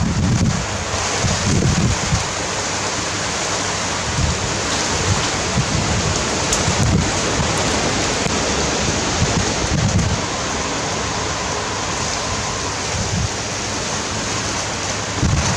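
Strong wind blowing in gusts, with repeated low rumbles from the wind buffeting the microphone.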